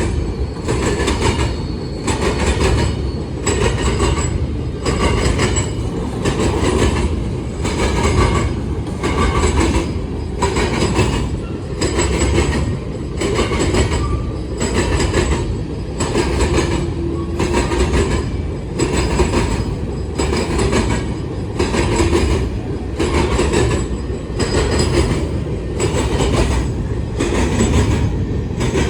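Freight cars of a CSX grain train rolling past close by: a steady low rumble with a rhythmic clack about once a second as the wheels cross rail joints, and thin squealing tones from the wheels.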